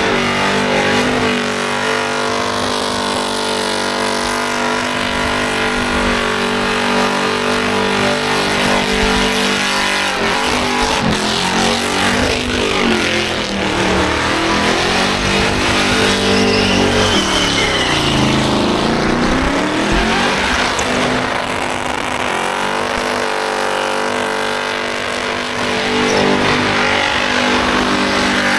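Car engine held at steady high revs through a burnout, rear tyres spinning on the pad. The revs dip and climb back up twice around the middle.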